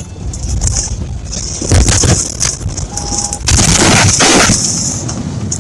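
Vehicle collision: loud crashing impacts, the heaviest about two seconds in and again about four seconds in, with shorter sharp knocks between.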